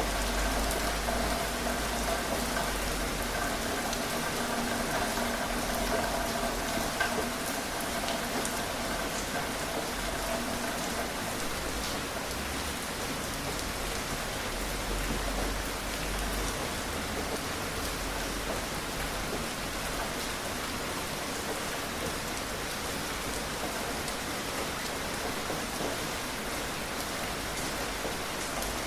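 Steady rain falling, an even hiss of drops. A faint steady hum sits under it for about the first ten seconds, then fades out.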